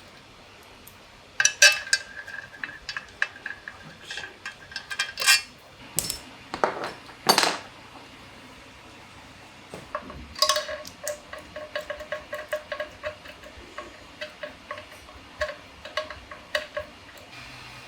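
Metal tools and engine parts clinking and being tapped, some strikes leaving a clear ringing tone. A quick run of light taps follows about halfway through.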